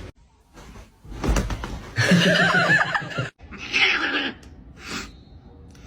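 Cat yowling: one long wavering call about two seconds in, then a shorter, noisier burst.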